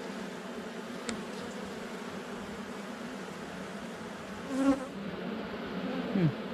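A honeybee colony buzzing steadily from an opened hive during a frame inspection. The buzz swells briefly twice near the end.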